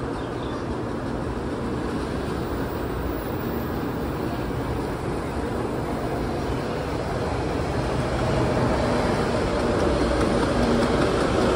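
Taiwan High Speed Rail 700T electric train pulling into the station, its running noise growing steadily louder as it draws in and comes alongside the platform in the last few seconds, with a faint whine near the end.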